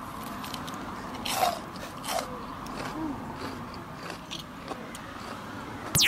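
A person chewing food close to the microphone, with a few crunchy bites, the clearest about one and a half and two seconds in. Near the end a loud whistling sound effect sweeps steeply down in pitch.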